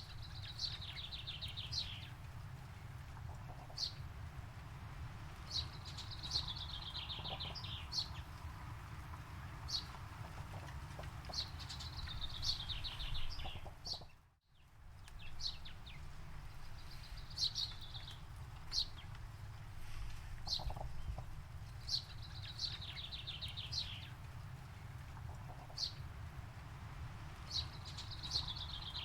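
A songbird repeating a short phrase, a quick run of notes sliding down in pitch, about every five seconds, with single sharp chirps between. Under it is a steady low rumble, and the sound drops out for a moment about halfway.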